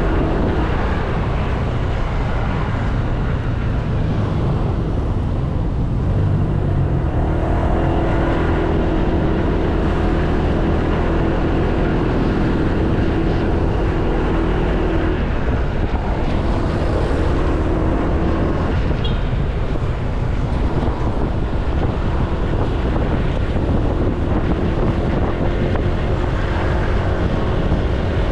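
Riding a Honda Click 160 scooter through traffic: wind buffeting the action camera's microphone over the scooter's single-cylinder engine and road noise. A steady engine hum stands out for several seconds in the middle.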